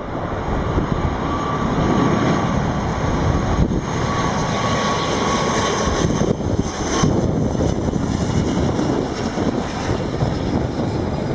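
Airliner engines on landing approach, a steady rumble with a high whine that stops about seven seconds in, over wind buffeting the microphone.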